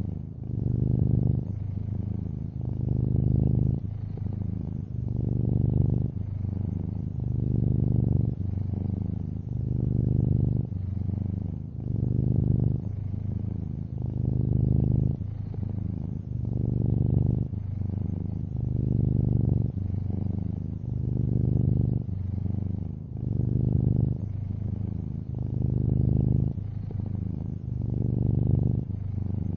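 Long-haired orange tabby cat purring close up, a low, buzzy rumble that swells and eases with each breath, about one breath every two seconds.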